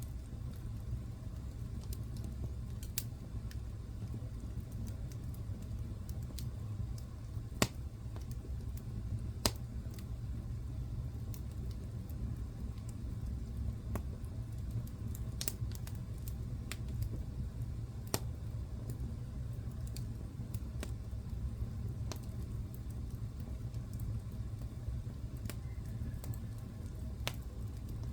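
Wood fire crackling in a fireplace: scattered sharp pops and snaps over a steady low rumble, with the loudest pops about a third of the way in.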